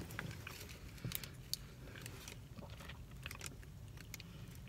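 Faint close-up chewing of a soft pretzel-dough snack with the mouth closed: small wet mouth clicks now and then over a low steady hum.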